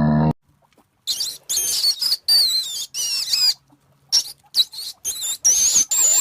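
A low grunt cuts off in the first moment. It is followed by an animal's rapid series of high-pitched squeaking chirps that waver up and down, each under half a second, with short gaps between them.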